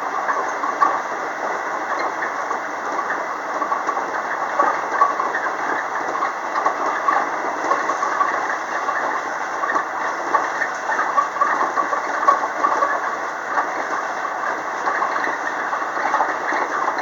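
Running noise heard inside the lead car of a JR West 225-0 series electric multiple unit under way: a steady rumble of wheels on rail with faint, irregular clicks.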